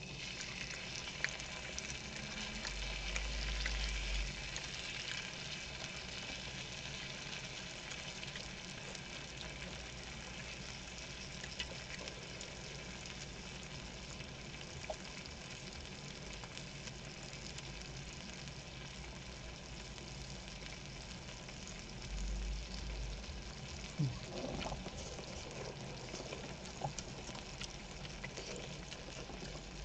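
Kimchi and pork belly frying in rendered pork fat on a pan: a steady sizzle, with a few faint ticks and light knocks of stirring.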